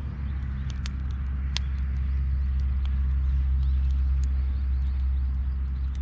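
A steady low rumble, like an engine running, slowly swelling, with scattered sharp crackles and clicks over it, as from a wood or charcoal fire.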